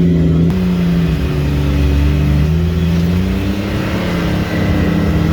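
Can-Am Maverick X3 side-by-side's three-cylinder engine running steadily as the machine drives along the trail, its pitch dipping slightly and coming back up with small throttle changes.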